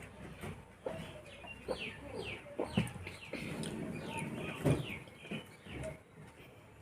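Birds calling: a quick run of short falling chirps, mixed with a few sharp knocks.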